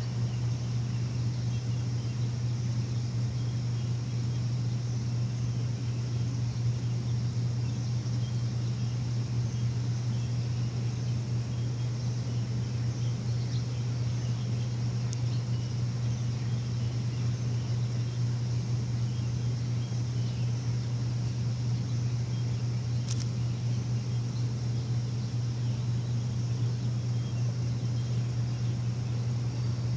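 Steady low hum of a machine running without change, with faint scattered bird chirps behind it.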